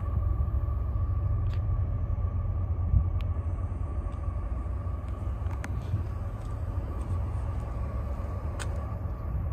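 Semi-truck on the move: a steady low engine and road rumble, with a faint steady whine and a few light clicks and rattles.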